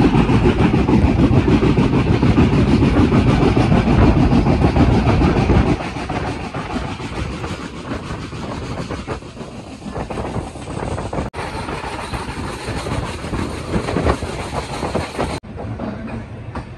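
Indian Railways passenger train running along the track: the rumble and rattle of the coach and its wheels on the rails. It is loud for about the first six seconds, then quieter, and cuts out abruptly twice.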